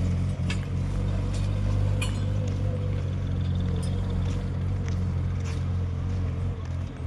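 Mahindra 475 tractor's diesel engine running steadily, with a few sharp metallic clinks.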